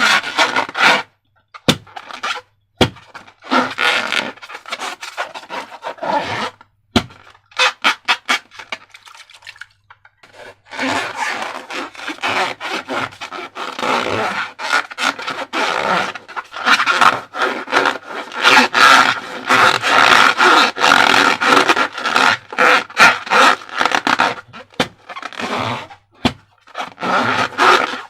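Slime being squeezed and squished by hand, giving dense runs of crackling, clicking and squelching pops, with short pauses between handfuls.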